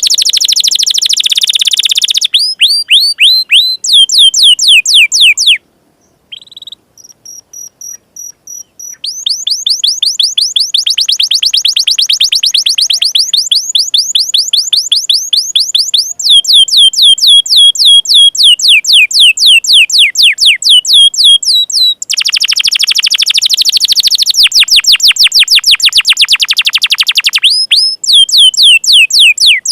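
Canary singing a loud, fast 'door'-style song of rapid repeated falling trills, the kind of song used as tutoring material for young canaries. About six seconds in it drops briefly to a quieter run of short, evenly spaced high notes, then returns to the fast trills.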